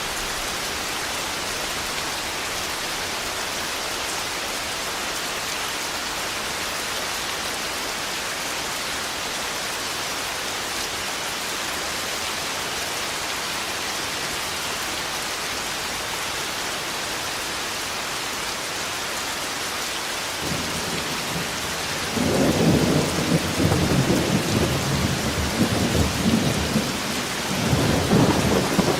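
Steady heavy rain, joined about two-thirds of the way through by a loud rolling rumble of thunder that swells, eases briefly and builds again near the end.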